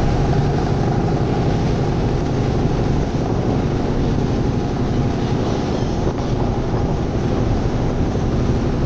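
Motorboat engine running steadily at a constant speed, a loud even rumble heard from on board.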